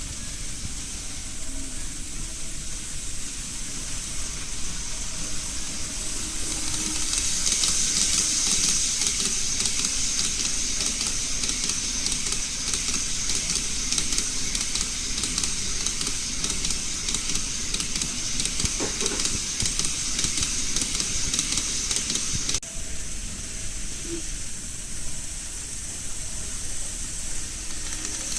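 Model freight train running on a layout's track: a steady high hiss of wheels on rail with fine rapid clicking. It grows louder about six seconds in, drops off abruptly about two-thirds of the way through, and swells again near the end.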